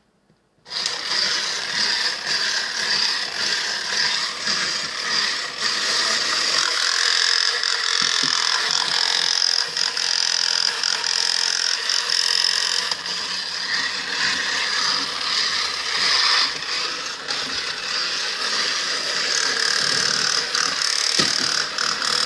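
Battery-powered walking toy robot's small electric motor and plastic gearbox running, a steady whir with many small ratcheting clicks, starting about a second in. The robot is struggling to walk; one of its wheels is stuck with glue.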